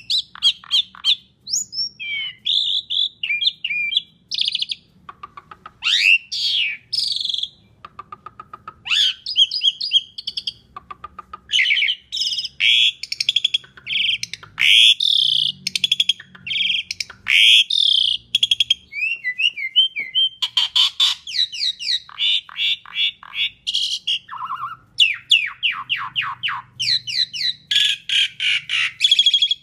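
Asian pied starling singing a long, varied song without pause: rapid chattering note runs, rising and falling whistles and quick repeated phrases.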